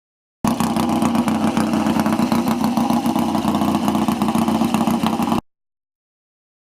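A motorcycle engine running steadily at a fast idle, with no clear revving. It cuts in suddenly and cuts off just as suddenly about five seconds later.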